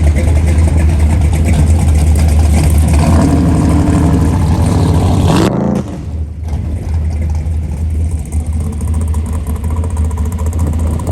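Loud car engine running with a deep steady rumble. Its pitch climbs over a couple of seconds, then drops off suddenly about halfway through to a quieter steady rumble.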